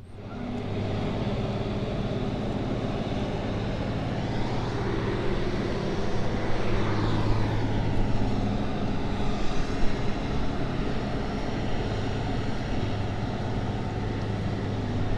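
A motor drones steadily and fairly loudly, with a pitch that sweeps up and then down a little before the middle, as a powered craft passes.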